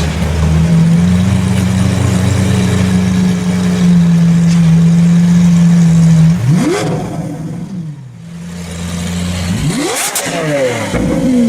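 Lamborghini Aventador V12 engine holding a steady note for about six seconds, then revving twice in quick rising sweeps that each fall back down, with a short lull between them.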